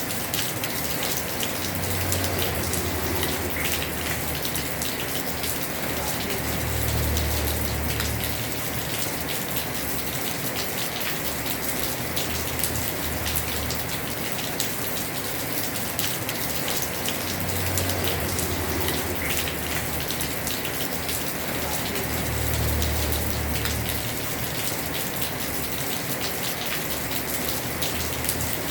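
Heavy rain falling steadily on a house roof, a dense patter of drops. A low rumble swells and fades every few seconds underneath.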